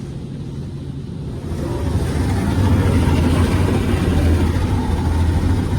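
Tunnel car wash equipment running around the car as it goes in, heard from inside the car: a loud rushing noise with a deep hum that swells up about one and a half seconds in and then holds steady.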